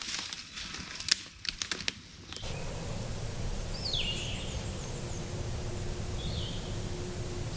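A couple of seconds of sharp clicks and rustling, then an abrupt change to steady outdoor hiss with wild songbirds calling; one clear falling call comes about four seconds in.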